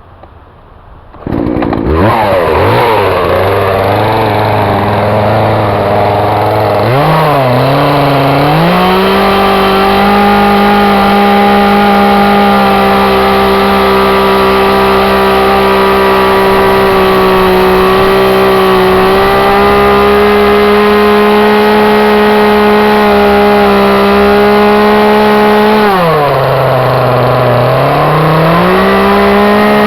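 Gas chainsaw starting up about a second in, idling, then throttled up to high revs and held there. Near the end the revs drop briefly and then climb again.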